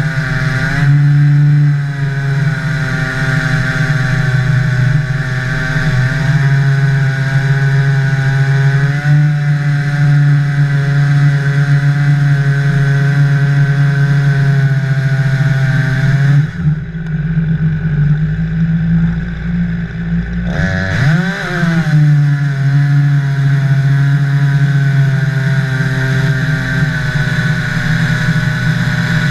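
Jonsered 2149 Turbo two-stroke chainsaw running at high revs, its pitch wavering slightly as it pulls through a log on the mill. About two-thirds of the way through it drops to idle for about four seconds, then revs sharply back up.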